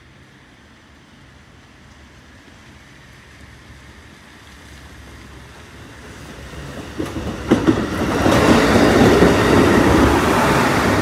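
A Colas Rail track maintenance machine approaches and passes over the level crossing. Its rumble grows from faint to loud, with sharp clicks of its wheels over the rail joints about seven seconds in.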